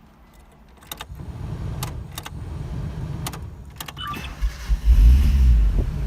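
A Mitsubishi Starion GSR-V's starter cranking the engine from about a second in, a steady low churning with a few sharp clicks, the engine failing to start. A louder low rumble swells about four and a half seconds in and eases off again.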